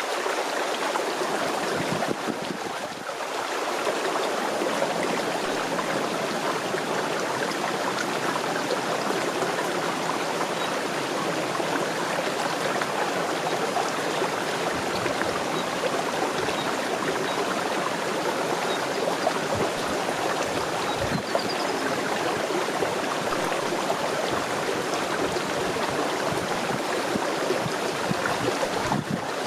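Steady rushing of running water, like a mountain stream or runoff.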